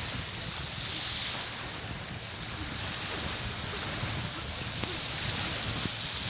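Sea waves washing onto a beach, a hiss that swells and fades, with wind buffeting the microphone.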